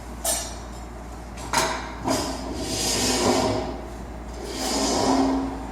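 Wood knocking and scraping: three sharp knocks in the first two seconds, then two long rubbing scrapes.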